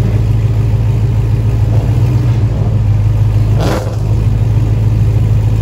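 Car engine running with a steady low hum, with a brief louder burst about three and a half seconds in.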